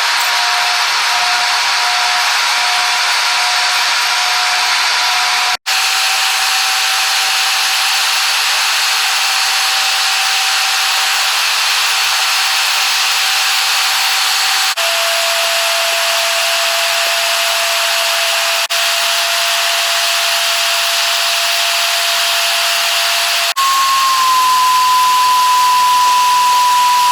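Airbus A321 cabin and engine noise sped up sixteen times, so the low in-flight drone becomes a steady high hiss with a drill-like whine. The whine's pitch jumps at several abrupt cuts, there is a brief dropout about six seconds in, and near the end it turns louder and higher.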